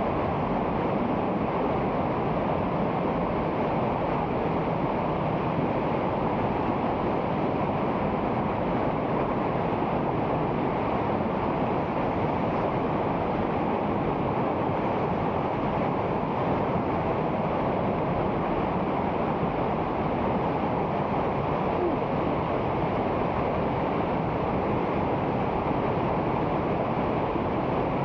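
Steady rushing of a rain-swollen river in flood.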